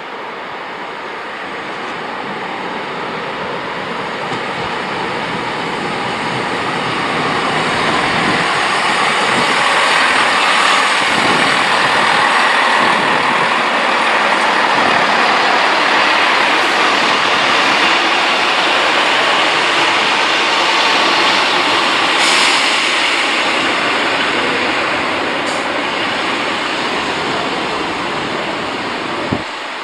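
Diesel multiple-unit passenger train running through the station, its engine and wheel noise swelling to a long peak through the middle and then easing off, with a couple of sharp clicks from the wheels on the rails.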